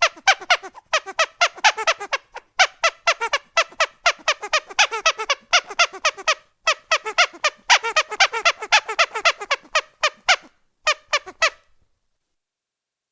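Rubber duck squeak toy squeezed hard over and over: a rapid run of short, high squeaky whistles, several a second, with a few brief pauses, stopping a little before the end.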